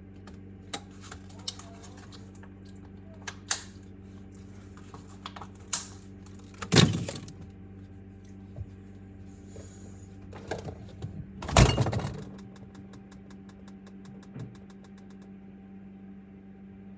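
Scattered clicks and taps of things being handled, with two louder knocks about seven and twelve seconds in and a quick run of ticks near the end, over a steady low electrical hum.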